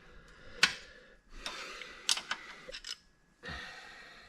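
Sharp clicks and knocks of tools and metal parts being handled, three standing out, with short scraping noises between them.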